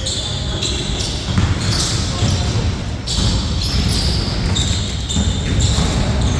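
Basketball game on a court: the ball bouncing as it is dribbled, with scattered high-pitched sounds and players' voices around it.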